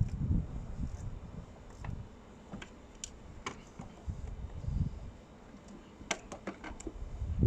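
Irregular metallic clicks and knocks of hand tools on bolts, with dull thuds of handling, as bolts are fitted and tightened by hand in the engine bay. A quick run of several clicks comes about six seconds in.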